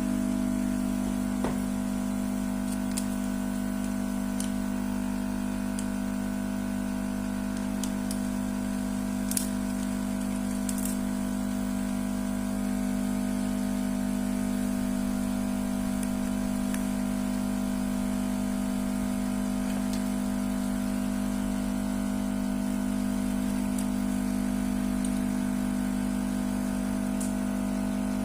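A steady machine hum that does not change in pitch or level, with a few faint clicks scattered through it.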